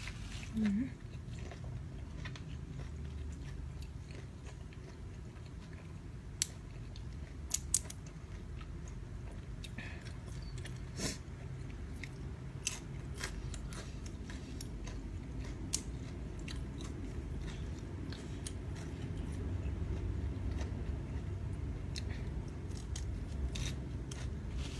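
A person eating close to the microphone: chewing and biting food, with scattered sharp clicks and small crunches.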